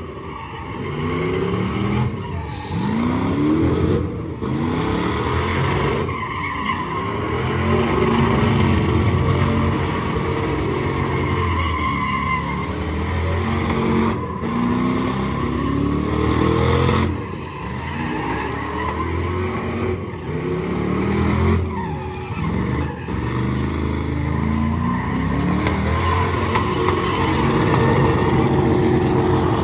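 Truck engines revving over and over, their pitch rising and falling every couple of seconds, with sudden breaks between the revs.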